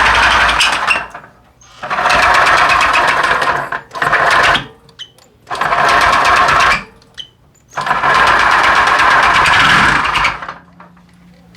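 Honda PCX 125 scooter's single-cylinder engine revved in five throttle bursts, with short drops back between them and a fast, even clatter through each burst. This is the strange engine noise that led to the engine being torn down for repair.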